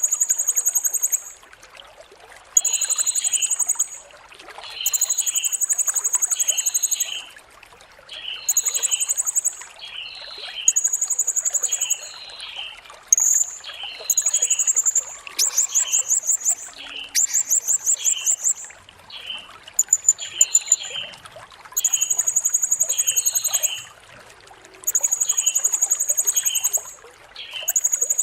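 Blue-crowned hanging parrot (serindit) calling: very high-pitched, shrill trilling notes about a second long, repeated every couple of seconds, with short lower chirps between them. Around the middle come a few rapid, stuttering trills.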